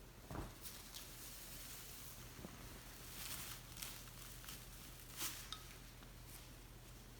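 Cape parrot preening, its beak working through its feathers: faint, scattered rustles and small clicks, with a sharper click about five seconds in.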